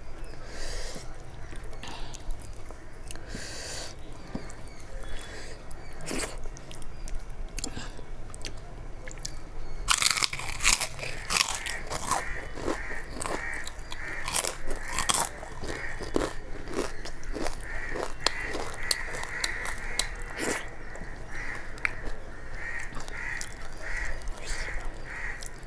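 Close-miked eating: quiet chewing at first, then from about ten seconds in, loud crisp crunching as fried papad is bitten and chewed. This settles into steady rhythmic chewing near the end.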